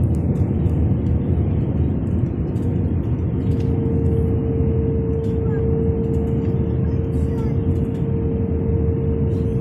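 Airliner cabin noise on the approach to land: a steady engine and airflow rumble with a constant hum that grows stronger about three and a half seconds in.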